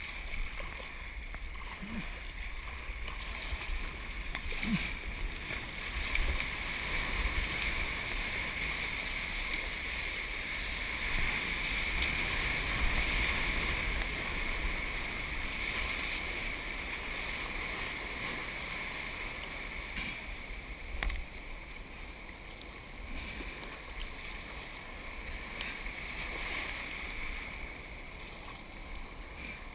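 Ocean surf and water rushing steadily around a surf kayak, swelling a little about halfway through.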